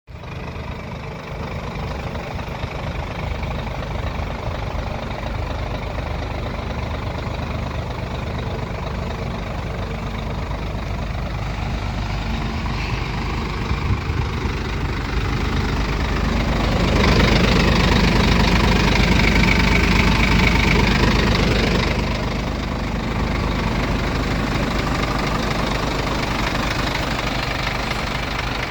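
Scania 114 380 truck's 11-litre straight-six diesel idling steadily, revved up for a few seconds past the middle and then dropping back to idle.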